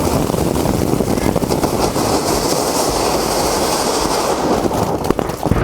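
Diwali firecrackers going off in a dense, rapid crackle of many small bangs, with a hiss rising over them for a couple of seconds in the middle.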